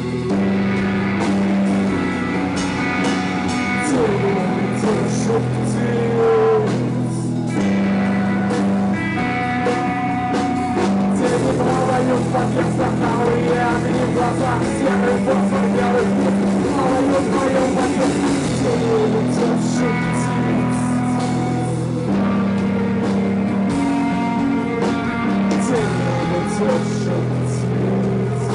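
Live psychedelic rock band playing an instrumental passage: electric guitar with bending lead notes over steady bass and a drum kit.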